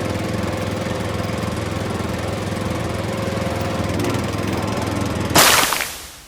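A steady engine running sound, then a sudden loud rushing noise about five seconds in that quickly fades away.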